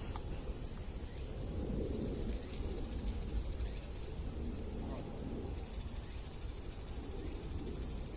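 Insects trilling in rapid, even pulses, high-pitched, growing stronger about five and a half seconds in, over a low steady rumble.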